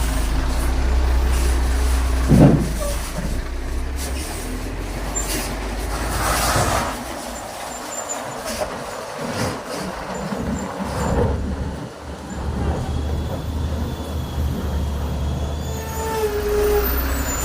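Heavy trailer trucks passing on a steep downhill, diesel engines rumbling, with a sharp burst about two and a half seconds in and several hissing air-brake releases later on.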